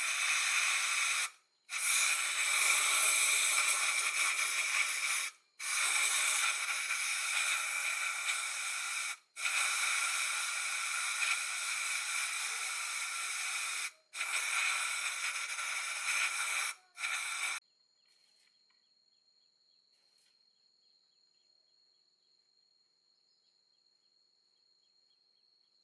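A loud, steady hissing spray in six long bursts of a few seconds each, with sudden brief breaks between them, stopping about 17 seconds in. Faint insects trilling follow.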